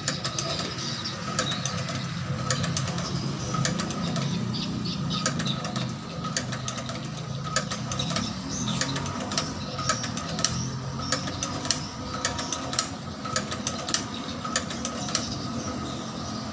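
Motor-driven shoe-sole stitching machine running, with a steady motor tone under a stream of irregular sharp clicks from the stitching mechanism.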